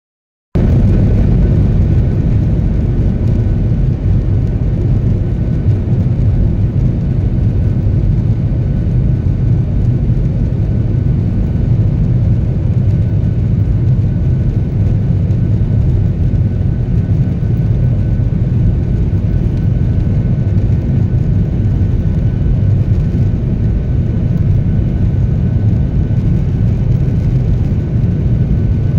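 Jet airliner's engines and airflow making a steady, loud low rumble, with a faint steady high tone over it, as the aircraft takes off. The sound starts abruptly about half a second in.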